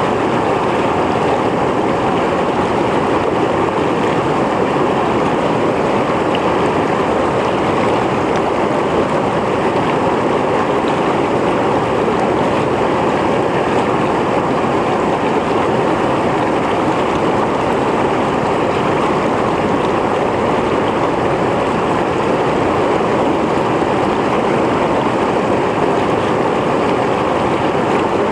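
Mountain stream flowing over rocks: a steady, dense rush and splash of water.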